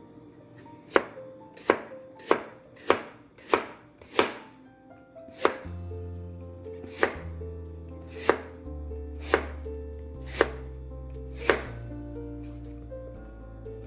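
Kitchen knife chopping on a cutting board: about a dozen sharp single strokes, quicker at first, then slower and more spaced out.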